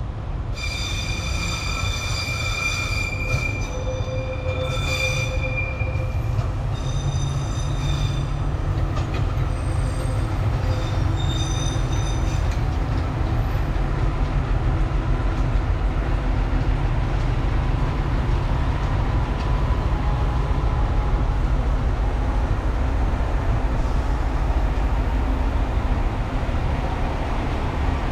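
Rail vehicle running on the track: a high-pitched squealing comes and goes in several stretches for about the first twelve seconds over a steady low rumble, which then carries on alone and grows slightly louder.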